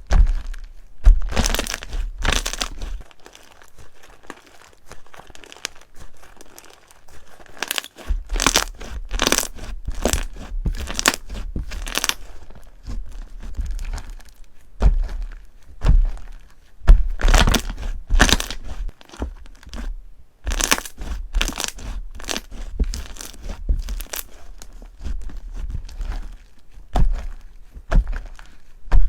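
Slime being pressed and squeezed by hand, giving runs of sharp crackles and pops with dull handling thumps underneath.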